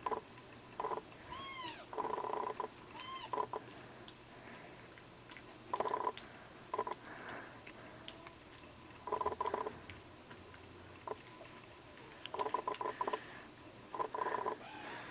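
Young kittens mewing during bottle-feeding: a few short cries that rise and fall in pitch, among repeated short buzzy bursts of sound at irregular intervals.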